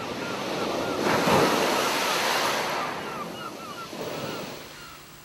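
A wave breaking on the shore, swelling about a second in and washing away near the end, while gulls call in a rapid series of short cries over it.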